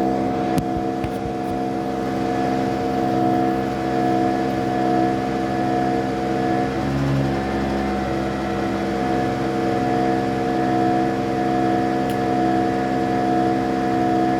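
Vacuum tanker truck's engine-driven vacuum pump running steadily, sucking melted grease up through the suction pipe, with a brief change in the sound about seven seconds in.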